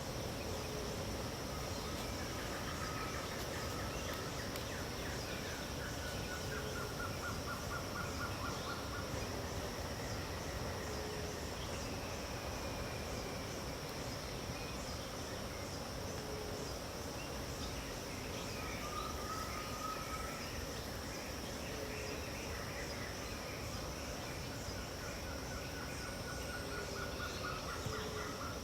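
Pantanal wetland dawn chorus: a steady high insect buzz under bird calls, with a rattling trill repeated a few times and short low notes every couple of seconds.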